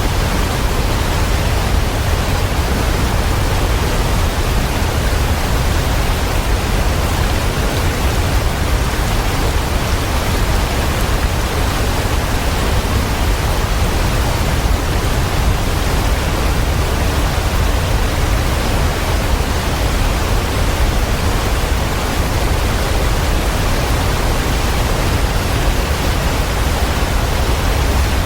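Waterfall: a steady, unbroken rush of falling water, heaviest in a deep low rumble, with no changes.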